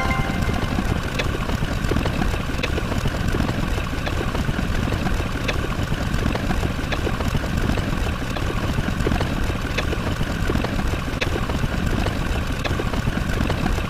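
Steady engine-like rumble with a few steady higher tones over it, and a faint click roughly every second and a half.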